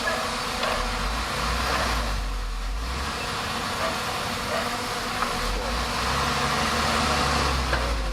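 Bulldozer's diesel engine running, its low drone swelling and easing off twice.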